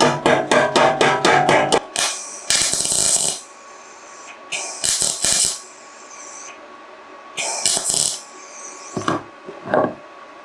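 Hand-tool work on metal scooter parts: a quick run of about ten sharp strokes, then four short scraping passes and two knocks near the end.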